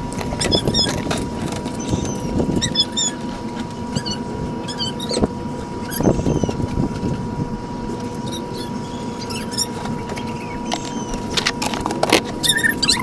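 Motor oil poured from a bottle through a funnel into the filler of a 2020 Toyota 4Runner's 4.0 L V6, glugging irregularly, with a steady faint tone behind it.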